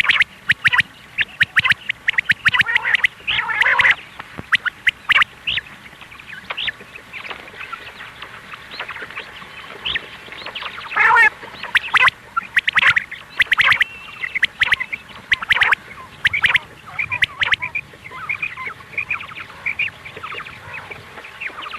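Quail calling over and over in rapid, harsh, chattering runs, with a loud stretch near the start and another about eleven seconds in.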